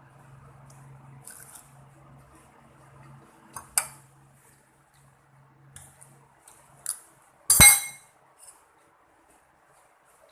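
Cutlery and dishes clinking while someone eats: a few light clicks, a sharp clink about four seconds in, and the loudest, briefly ringing clink about seven and a half seconds in. A faint low hum runs under the first half.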